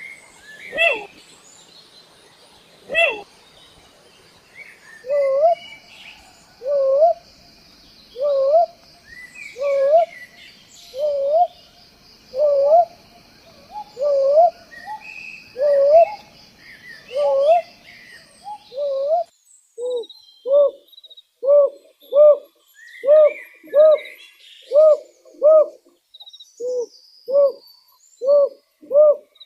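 An owl calling: a series of short hoots, each sliding up in pitch, repeated about every second and a half. About two thirds of the way in, the calls change to a quicker run of shorter hoots, roughly three every two seconds.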